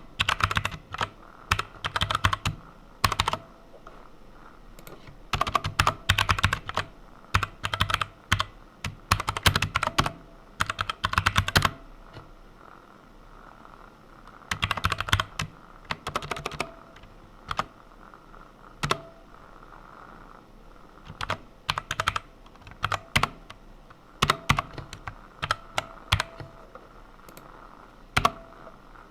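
Computer keyboard typing: runs of quick keystrokes a second or two long, broken by short pauses.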